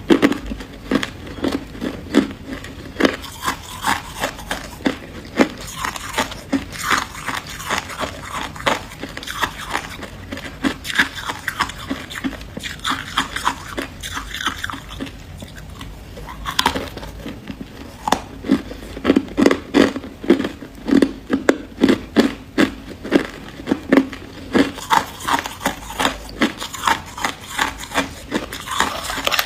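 Freezer frost being bitten and chewed close to the microphone: a steady run of short, crisp crunches, about two a second, louder and more regular in the second half.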